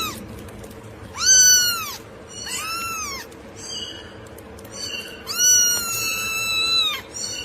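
A cat meowing three times. Each meow rises and then falls in pitch, and the third one, about five seconds in, is long and drawn out.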